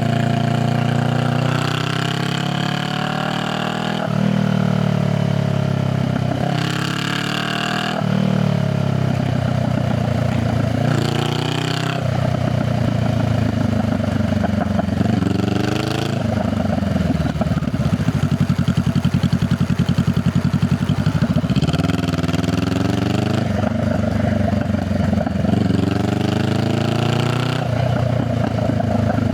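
Honda Rebel 500 parallel-twin motorcycle exhaust under way: the engine note climbs and drops three times as the rider shifts up through the gears, then falls away as the bike slows on a closed throttle, before climbing through two more upshifts near the end.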